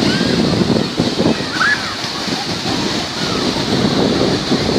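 Black Sea surf washing onto the shore in a steady rush, with wind buffeting the microphone.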